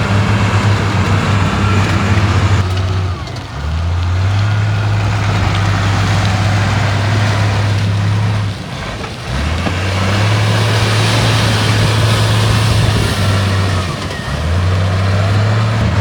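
Heavy diesel earthmoving machinery running under load. The engine note dips three times and climbs back each time.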